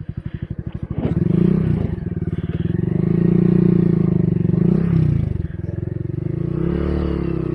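Honda Grom's small single-cylinder engine revving under throttle while the bike works through a rocky creek crossing: it picks up about a second in, holds, drops back, and rises again near the end.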